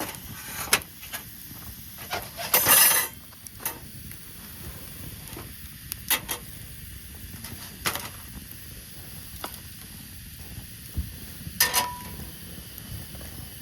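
Scattered clinks and knocks of camp cookware and utensils being handled, with a louder scrape or rustle about two and a half seconds in, over a low steady hiss.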